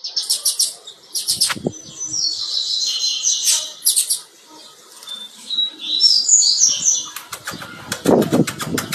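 Female double-collared seedeater (coleiro) in breeding condition calling: repeated high, thin chirps and quick chattering series. Near the end there is a brief rapid wing flutter.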